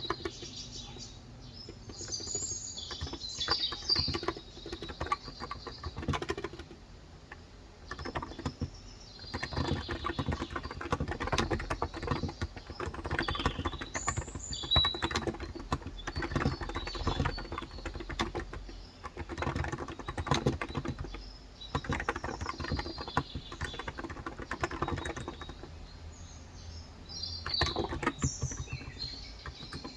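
Typing on a Cox Endeavor electro-capacitive (35 g) tenkeyless keyboard, keys clacking in bursts with short pauses. Birds chirp now and then over the typing.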